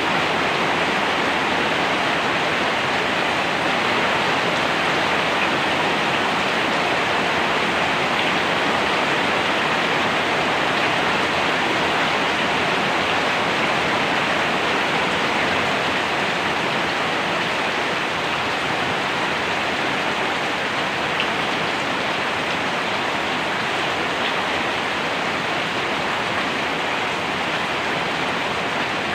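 Steady heavy rain, an even hiss of falling water with the odd faint drop tick.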